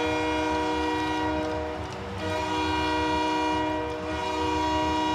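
Hockey arena goal horn blowing in long, steady blasts after a goal, with short breaks about two seconds in and again about four seconds in.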